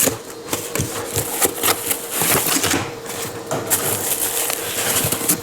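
Irregular clicks, taps and rustling from parts and their packaging being handled, over a faint steady hum.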